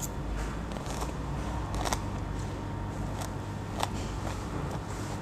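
A person eating: quiet chewing with a few light clicks scattered through it, over a low steady hum.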